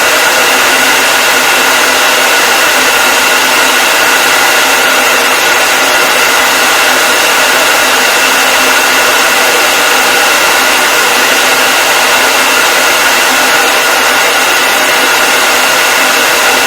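Hair dryer running continuously: a loud, steady blowing noise with a constant motor whine and no change in pitch or level.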